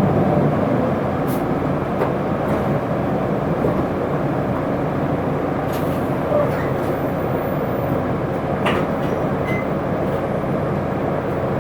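Inside an Isuzu Erga city bus under way: the steady rumble of its diesel engine and road noise, with a few light clicks and rattles from the cabin.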